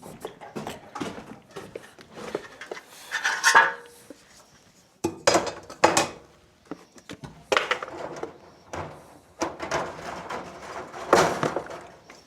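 Irregular clatter and knocking of hard objects being handled and set down, a series of separate knocks about a second apart.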